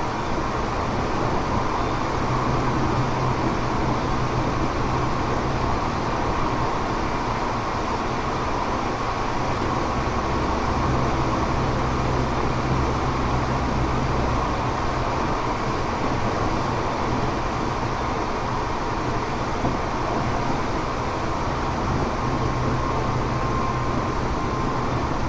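Tokyo Metro 6000 series train running, heard from inside the car near the driver's cab: steady wheel-and-rail rumble with a thin, steady, high whine from the refurbished armature-chopper motor control. A low motor hum comes and goes, swelling for a few seconds about ten seconds in.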